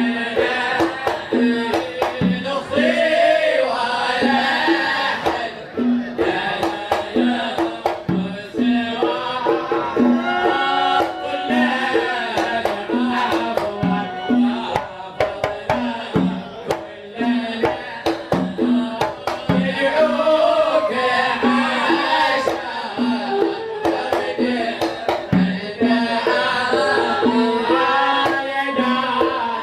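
Sama' devotional singing with hand drums keeping a steady beat under the sung melody.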